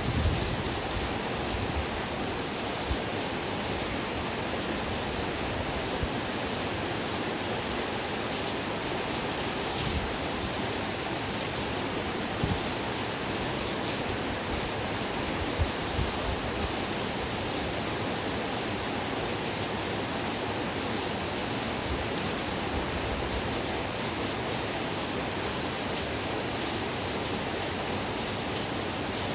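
Heavy rain falling steadily: an even, unbroken rushing hiss, with a few soft low thuds scattered through it.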